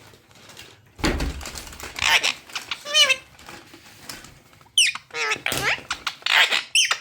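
Pet parrot calling in a run of squeaky chatter and squawks, with a warbling note about three seconds in and sharp falling whistles near the middle and again near the end.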